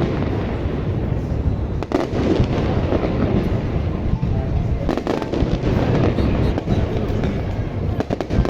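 Fireworks going off in a dense, continuous run of deep booms. Sharper cracks stand out about two, five and eight seconds in.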